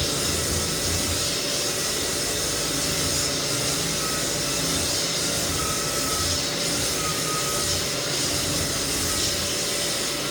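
Lagler Flip belt floor sander running steadily while sanding white oak flooring, a constant machine noise with a faint wavering whine over it.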